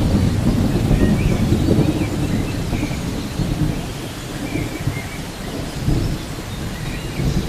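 Thunderstorm ambience: low rolling thunder over steady rain. The rumble eases off in the middle and builds again near the end.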